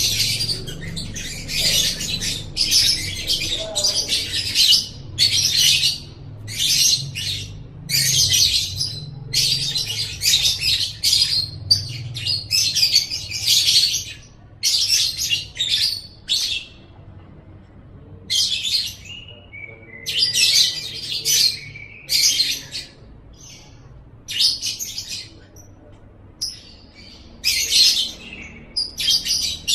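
Lovebird singing in rapid, high-pitched chattering bursts, each about half a second to a second long, coming close together at first and more spaced out in the second half.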